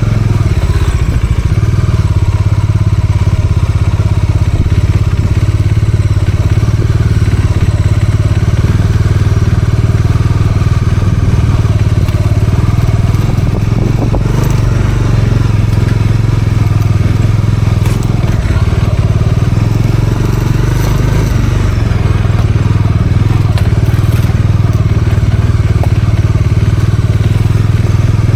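Bajaj Dominar 400's single-cylinder engine running at a steady pace, heard from on the bike, with the tyres crunching over a rough forest dirt track. A few sharp knocks come through partway in.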